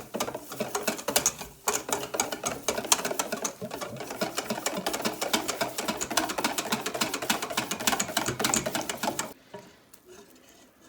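A whisk beating a cornstarch-and-water batter in a bowl: a fast, steady run of clicks as the whisk strikes the bowl, stopping about nine seconds in.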